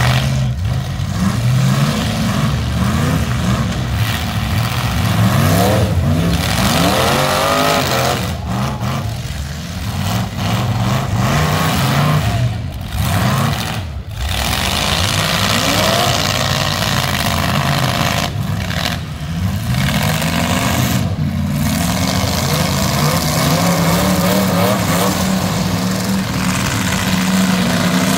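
Engines of several full-size demolition derby cars running and revving together, their pitch rising and falling.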